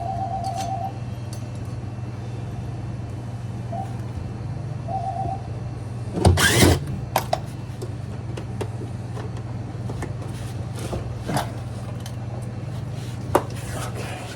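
Repair work on washer parts: scattered light clicks of tools and metal parts being handled, with a brief louder clatter about six seconds in, over a steady low hum.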